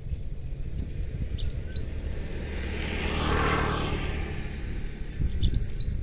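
A small bird chirping: a pair of short, quick rising notes about one and a half seconds in and again near the end. Underneath is a low rumble and a broad whoosh that swells and fades in the middle.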